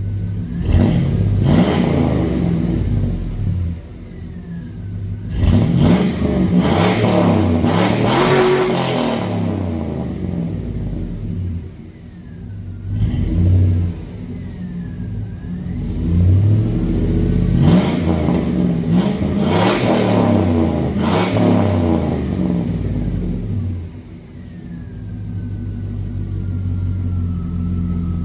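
A 1999 Chevy Silverado's 4.8 L V8 exhaust, fitted with a Speedy 10 muffler, revved several times, with one long rev in the middle, then settling back to a steady idle near the end.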